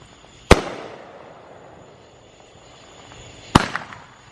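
Aerial fireworks bursting: two sharp bangs about three seconds apart, each trailing off briefly, the second followed by a few smaller pops.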